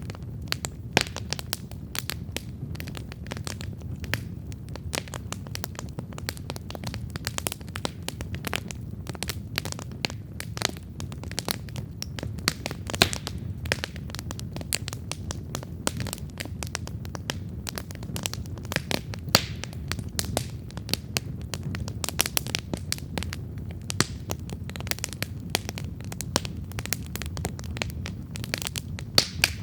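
Wood campfire burning, with dense irregular crackles and pops over a steady low rumble of flame.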